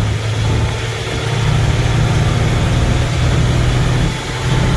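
International DT466 inline-six diesel in a 1982 International S1900 dump truck, pulling in third gear up a hill, heard from inside the cab. The engine note rises slightly as it pulls, easing briefly about a second in and again near the end.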